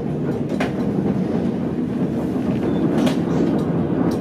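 White Pass and Yukon Route narrow-gauge passenger car rolling along the track: a steady low rumble of wheels and car body, with two sharp rail clacks, about half a second in and about three seconds in.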